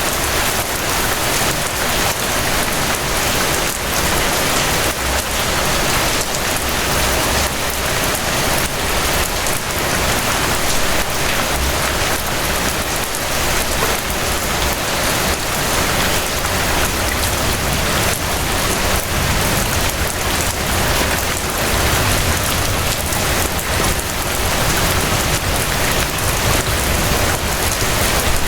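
Steady rain falling and pattering on surfaces, dense and even, with a low rumble underneath.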